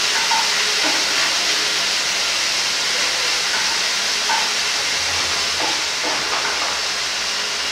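Deshelled prawns sizzling in hot rice bran oil with garlic and ginger paste in a frying pan: a steady hiss of frying.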